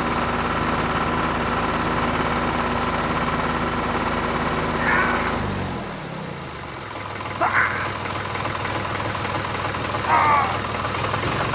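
A vehicle engine, most likely a tractor's, running steadily, then winding down to a lower idle about halfway through. Three short, high, chirp-like sounds come over it in the second half.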